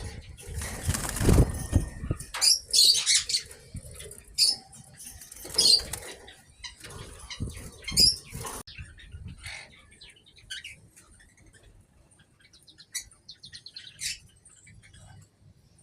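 Aviary birds flapping their wings, with high chirps mixed in. The flapping and chirping are loud for the first eight or nine seconds, then die down to faint, scattered chirps.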